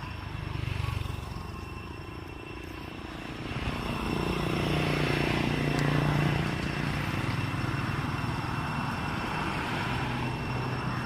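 A motor engine running with a steady hum, growing louder about four seconds in and easing off slowly after.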